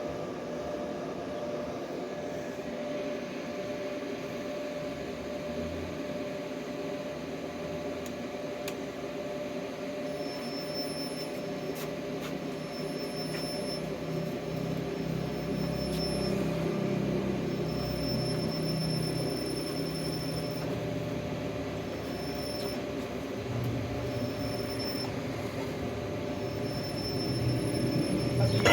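Steady mechanical drone of machinery running. From about ten seconds in, a faint high whine comes and goes in short stretches.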